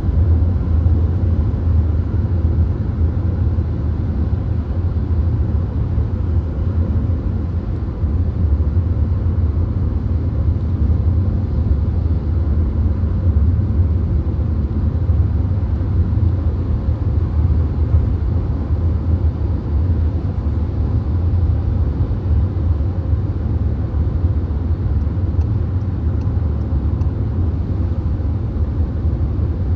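Steady low road noise inside a VW Golf cruising on a motorway: a deep drone of tyre roar and engine, with wind noise over it.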